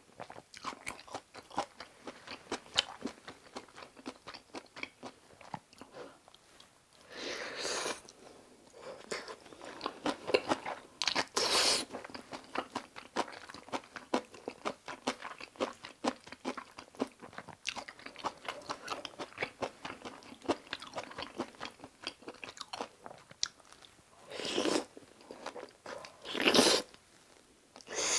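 Close-miked mouth sounds of someone chewing kimchi fried rice and kimchi: soft crunching and wet chewing clicks, with a few louder rushes of sound lasting about half a second.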